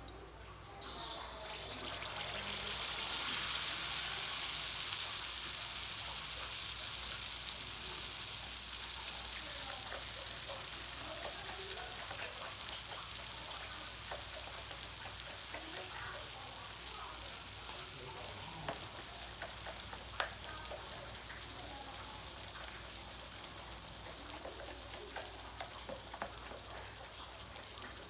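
Cake batter frying in hot oil: a loud sizzle starts suddenly about a second in, then slowly fades, with scattered small pops.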